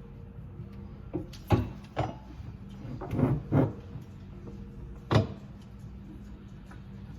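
A series of hard knocks and clunks from handling a kitchen garbage disposal under the sink: a cluster in the first half and a sharp one about five seconds in, over a steady low hum.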